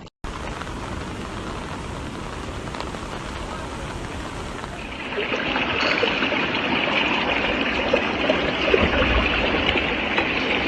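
Steady rushing-water noise, as of heavy rain and floodwater, with no distinct events. It grows louder and hissier about five seconds in.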